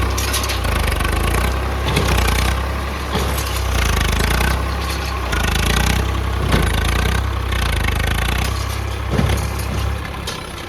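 Diesel engine of a JCB 3DX backhoe loader running at work. Its sound swells and eases every second or so, with a sharp clank about nine seconds in, and it quietens near the end.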